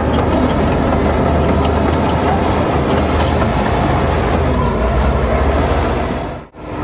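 Heavy diesel earthmoving machinery running steadily under load, a deep engine rumble with faint scattered clicks. The sound cuts out briefly near the end.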